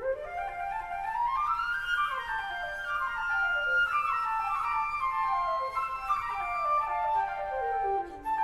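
Flutes, likely in a small wind ensemble, playing quick rising and falling scale runs that overlap one another in imitation, with held notes between the runs.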